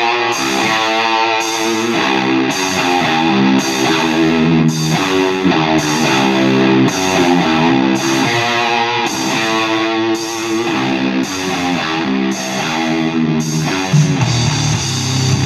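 Rock music with distorted electric guitar and a steady beat, playing from an FM broadcast through the Eton Field BT Grundig Edition radio's speaker.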